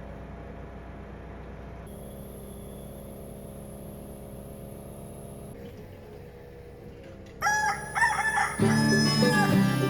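A steady low hum, then a rooster crowing loudly about seven seconds in, after which acoustic guitar music starts.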